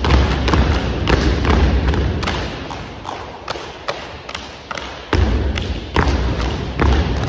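Unarmed exhibition drill team stomping and slapping in unison: a rapid run of sharp, heavy thuds that thins to lighter taps for a couple of seconds in the middle, then heavy stomps start again about five seconds in.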